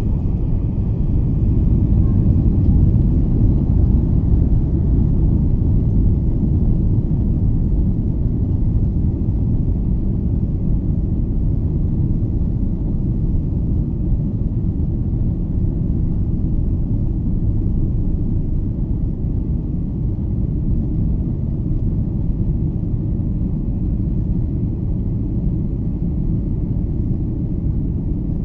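Boeing 747-400 heard from inside the passenger cabin during takeoff: a steady, loud, low rumble of engines and rushing air, swelling slightly a few seconds in.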